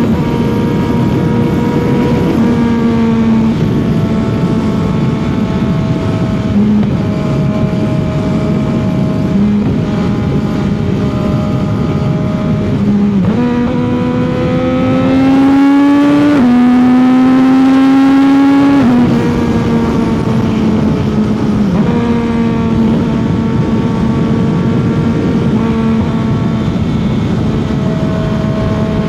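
CFMOTO 675's inline-three engine running at a steady highway cruise under wind and road noise. About halfway through it pulls harder for several seconds with a rising note, broken once by a short dip near the middle of the pull, then eases back to the cruising pitch.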